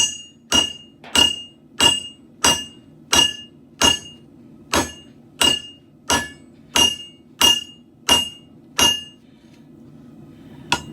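Hammer blows on a hot steel katana blade on an anvil, a steady rhythm of about one and a half blows a second, each with a bright metallic ring. The blows stop about nine seconds in, with one more near the end.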